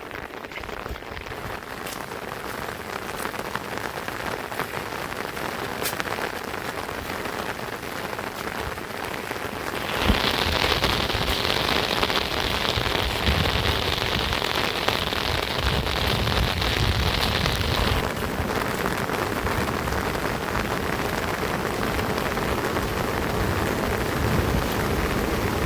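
Rain falling steadily. About ten seconds in it turns heavier and hissier for some eight seconds, then eases back.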